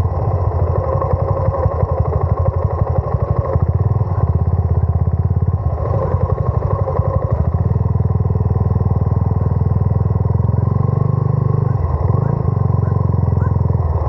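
Suzuki Gixxer 250's single-cylinder engine running steadily while riding, with a brief drop in the engine note about twelve seconds in.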